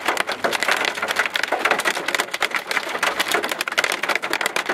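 Hail pelting a vehicle in a dense, irregular clatter of rapid hard impacts, with no let-up.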